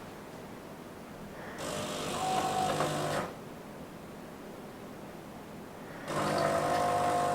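De'Longhi Eletta bean-to-cup coffee machine working through the coffee stage of a flat white: a mechanical buzz for about a second and a half, a quieter pause, then a steady humming buzz that starts about six seconds in as the machine goes on to brew the coffee.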